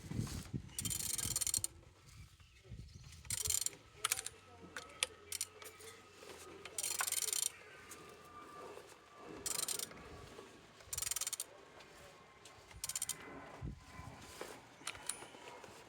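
Renault M9R diesel engine being turned over by hand with a wrench, in a series of short strokes with mechanical clicking and ratcheting between them; it turns freely.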